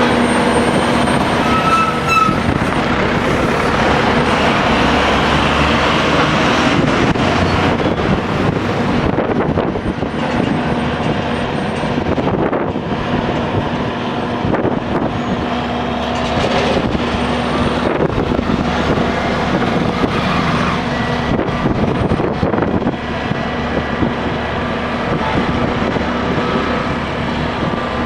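SANY SAG160-5 motor grader's diesel engine running steadily and loudly while the machine works.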